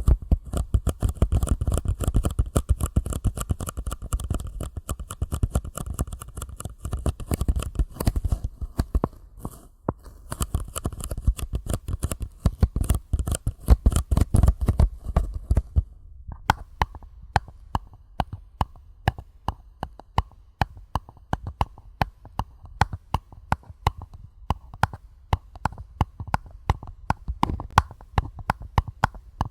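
Fingertips tapping on paper cups, a rapid, dense patter of light taps. About sixteen seconds in, the tapping turns lighter and more spaced, at about four taps a second.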